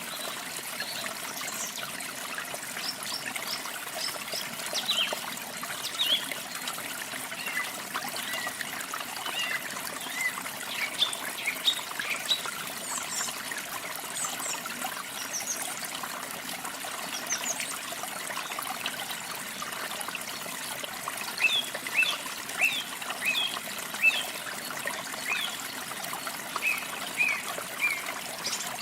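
Water trickling steadily, with small birds chirping over it in short calls, busier in the last third.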